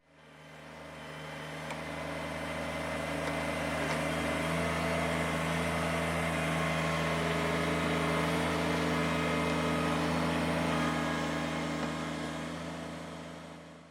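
An engine running steadily at a constant speed, fading in at the start and out at the end.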